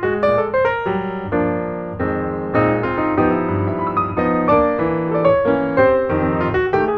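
Background piano music: a piano playing a melody over chords, one note after another.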